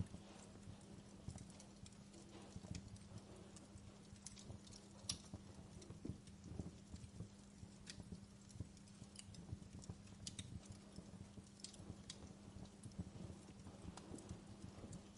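Wood fire crackling softly, with irregular small pops and snaps, the sharpest about five seconds in, over a steady low hum.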